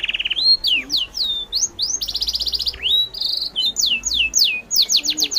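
Birds calling: a rapid series of high whistled notes that slide downward, with short buzzy trills about two and three seconds in.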